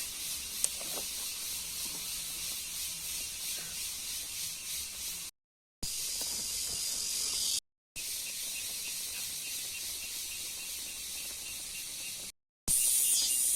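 Insects buzzing in a high, steady chorus with a fast pulsing rhythm. The sound cuts to silence three times, briefly each time, and comes back louder near the end.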